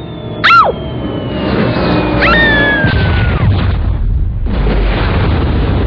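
Cartoon cat screeching: a loud falling yowl, then a second cry that rises and falls, over background music, followed by a low rumbling noise.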